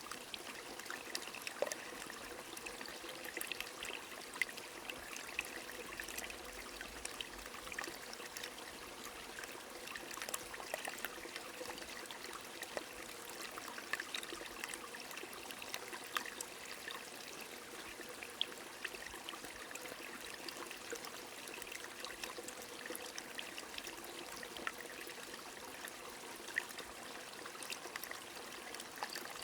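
Small stream trickling steadily in the rain, with many scattered sharp ticks of falling drops over an even watery hiss.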